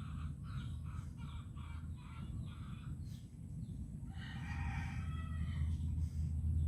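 Chickens clucking in short repeated calls, then a rooster crowing once about four seconds in, over a steady low rumble.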